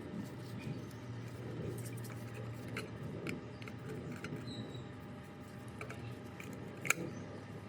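Scattered small clicks and light scratching of hand work on small parts, over a faint low steady hum; one sharper click near the end.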